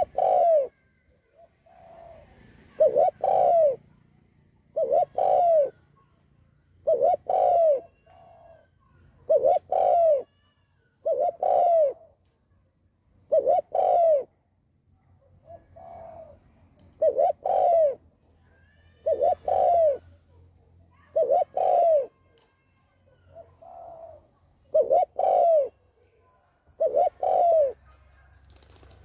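Spotted dove cooing: a low phrase of two or three notes, repeated about every two seconds.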